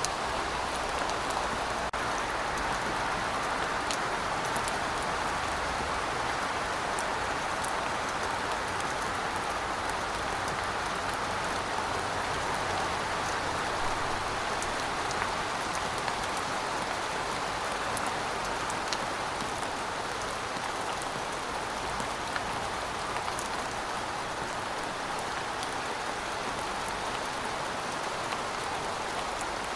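Heavy rain falling steadily: a dense, even hiss of rain on surfaces, with scattered sharp drop ticks on top. A faint low rumble sits under it for about the first half.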